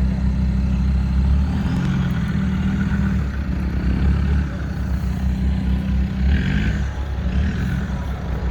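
Off-road 4x4's engine running at low revs, a steady low rumble. A brief higher sound cuts in about six seconds in.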